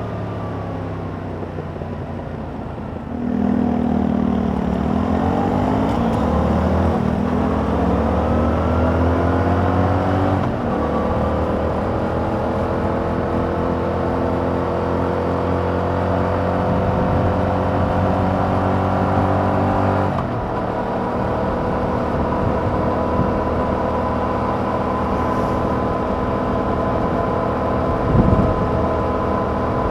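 Yamaha MT-07's 689 cc parallel-twin engine on its stock exhaust, heard from the bike while riding. About three seconds in it gets louder and the revs climb, then drop sharply about ten seconds in as it shifts up. The revs climb again more slowly, drop near twenty seconds, and then hold at a steady cruise. A brief low thump comes near the end.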